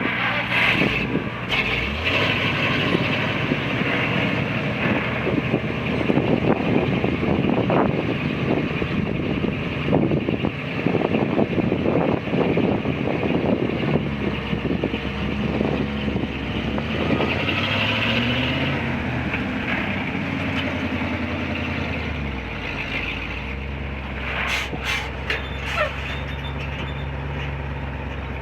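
1974 Ford 900 grain truck's engine running with a rattle through the first half. About two-thirds through its pitch rises as it revs, then it settles to a steady idle, with a few sharp clicks near the end.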